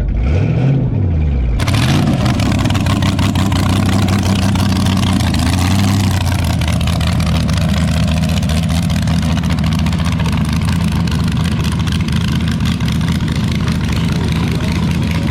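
A car engine rising and falling in pitch, then, after an abrupt change about a second and a half in, a loud engine running at a steady pitch.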